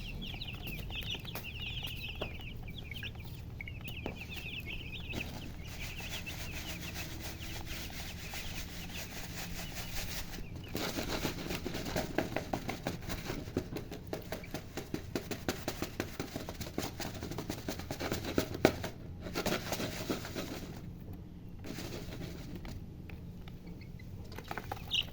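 Chicks peeping in quick, high, repeated chirps for the first five seconds or so, over a steady low hum. From about ten seconds in comes a long stretch of fast rustling and tapping, with one sharper click near the end of it.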